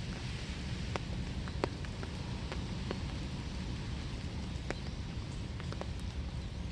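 Steady winter rain with a low background hiss, and individual drops striking surfaces as scattered sharp ticks, about a dozen of them at irregular intervals.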